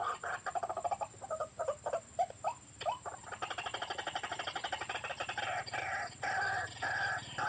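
White-breasted waterhen (ruak-ruak) calls played through a hidden electronic bird-call player as a lure: a fast run of harsh croaking notes, a few short upward-sliding notes about two to three seconds in, then a steady rapid pulsing chatter.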